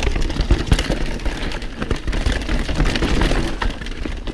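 Mountain bike riding down a rough trail: tyres rolling over dirt and rock with irregular knocks and rattles from the bike, and wind rumbling on the camera microphone.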